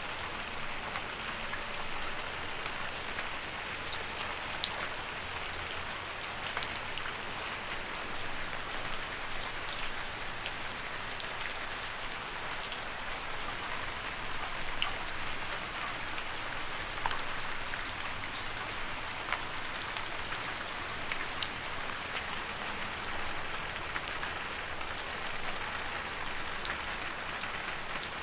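Steady rain: an even hiss of falling rain with many individual drops landing close by as sharp, irregular ticks.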